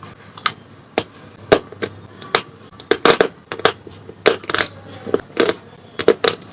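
Slate pencil being bitten and chewed close to the microphone: a rapid, uneven series of sharp, crisp crunches, two or three a second.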